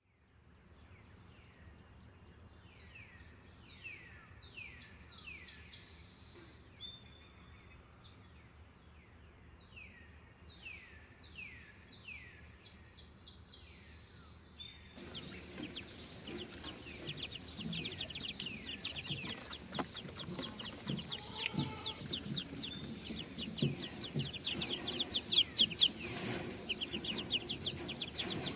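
Forest songbirds singing, over a steady high-pitched whine. In the first half a bird repeats falling whistled notes in short runs; about halfway through, a denser, louder chorus of rapid chirps and trills takes over, with lower sounds underneath.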